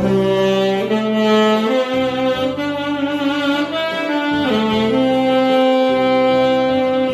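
Saxophone playing a slow melody of long held notes with a slight vibrato over a steady backing track.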